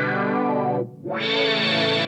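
Electric guitar played through a Boss SY-1 synthesizer pedal on a pad patch: sustained synth chords. The sound dies away just before a second in and swells back in with a new chord.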